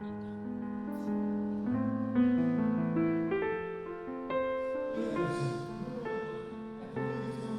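Slow piano music with sustained chords that change every second or so; a faint hiss joins about five seconds in.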